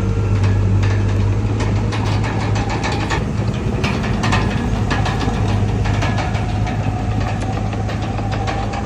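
Komatsu D31PX bulldozer's diesel engine running, with repeated sharp metallic clanks and a faint whine that rises slightly in pitch.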